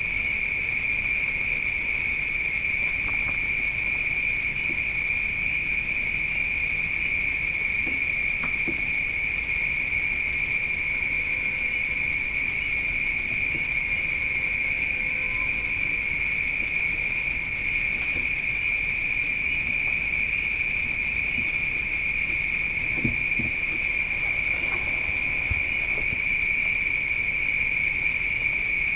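Chorus of crickets calling steadily, a continuous high-pitched trill at two pitches, one shrill and one higher still.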